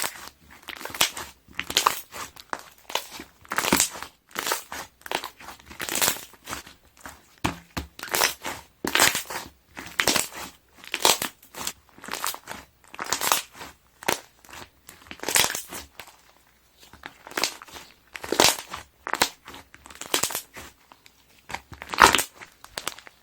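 Slime being pressed and squeezed, the air bubbles trapped in it popping and crackling in repeated bursts about once or twice a second.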